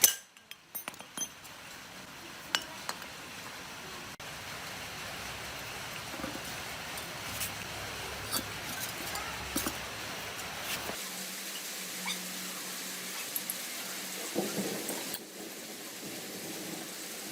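Scattered light clicks and clinks over a steady hiss, with the background changing abruptly about eleven seconds in.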